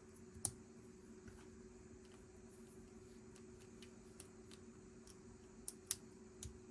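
Lego bricks being handled and pressed together: a few sharp plastic clicks, the loudest about half a second in and two or three more near the end, over a faint steady hum.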